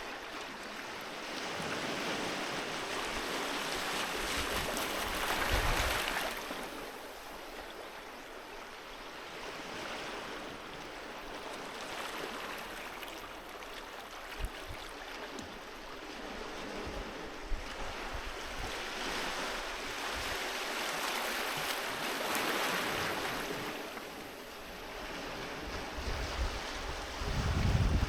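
Sea waves washing onto a beach, the surf swelling and fading in slow surges every several seconds.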